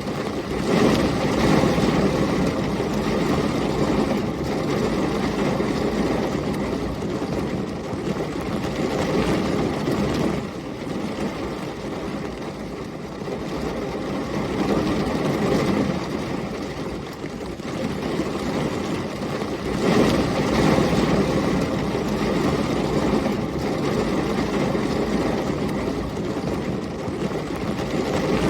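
Heavy rain and storm wind, a continuous low rumbling roar that swells and eases every few seconds. It is loudest about a second in and again around twenty seconds in.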